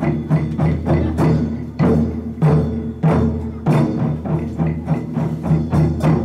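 Japanese taiko drums beaten by a group in a fast, driving rhythm: deep booming strokes several times a second with sharp wooden clicks of the sticks.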